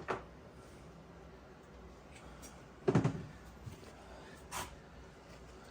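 A few light knocks and clunks of things being handled and set down on a workbench, the loudest about three seconds in, with a weaker one near the end.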